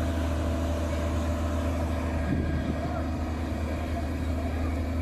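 Heavy truck engine running with a steady low drone, briefly unsettled about two seconds in.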